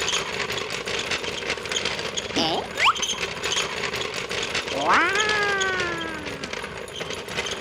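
A small motor runs with a steady rattle. Two quick rising chirps sound about two and a half seconds in, and a long falling pitched tone comes around five seconds in.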